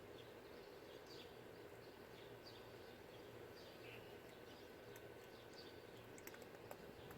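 Near-silent outdoor ambience with faint small birds chirping: scattered short, falling chirps over a low steady hum, with a few faint clicks near the end.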